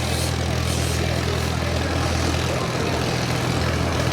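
An engine running steadily at idle: a low, even drone with a hiss above it.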